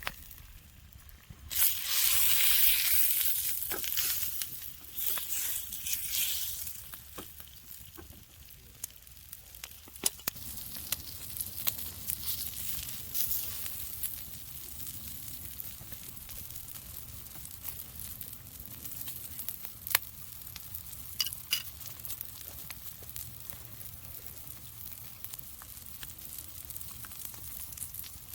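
Yakiniku meat sizzling as it grills, with a loud surge of sizzling about two seconds in that lasts a few seconds and then settles to a steady, quieter sizzle. Occasional sharp pops come through it.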